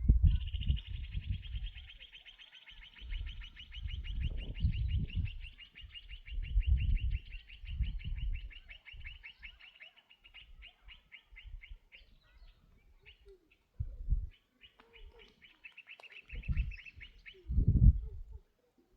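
A small bird singing a long, rapid trill of high notes that slows and breaks up near its end, then a second, shorter trill a few seconds later. Low rumbles come and go underneath.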